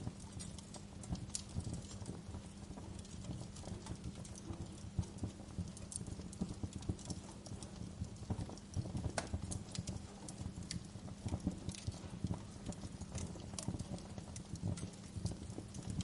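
Wood fire crackling in a fireplace: a continuous run of small irregular pops and snaps over a steady low rumble of the flames.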